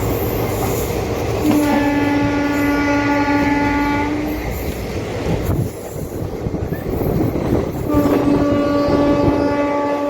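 Train horn sounding two long blasts of about three seconds each, the second starting around eight seconds in, over the loud, steady rumble and clatter of a train running on the rails.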